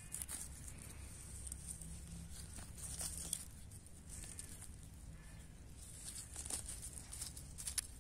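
Wild greens being plucked by hand: soft tearing and rustling of leaves and stems, with a few faint snaps.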